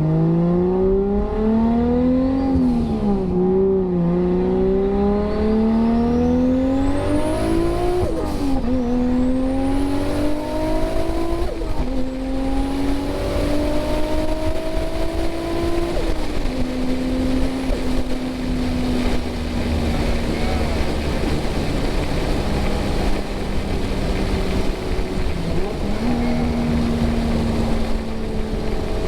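A 600 hp Mk4 Toyota Supra's 2JZ straight-six accelerating hard. The revs climb and drop sharply at each upshift, about 3, 8 and 11 seconds in. After a last climb the engine settles to a steady, slowly falling drone at cruise, with a faint rising high whistle during the middle pulls.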